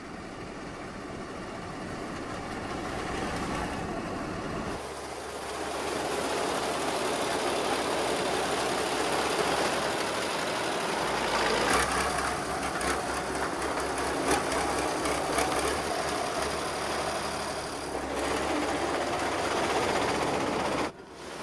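Salt-harvesting train and its machinery running on rails: a dense, steady mechanical noise that shifts in character about five and eleven seconds in.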